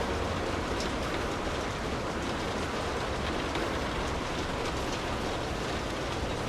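Steady rainfall, with individual drops ticking now and then over a low rumble.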